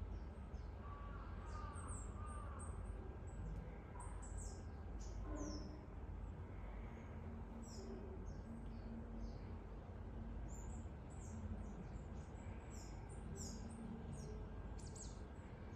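Small birds chirping: many short, high, falling chirps scattered throughout, over a steady low background rumble.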